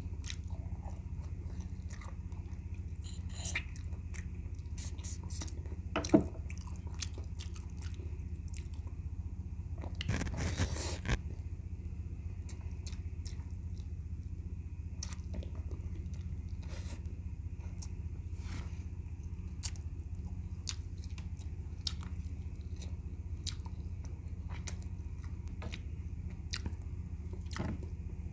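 Close-up chewing and mouth sounds of a man eating boiled goat's feet and rice by hand: scattered wet clicks and smacks, with a louder burst of noise about ten seconds in, over a steady low hum.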